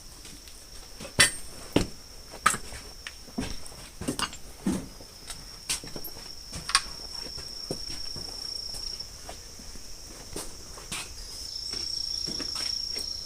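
Scattered knocks and clinks of tools and parts being handled and set down while rummaging through a shop, with a steady high insect trill that sets in about five seconds in, breaks off, and comes back near the end.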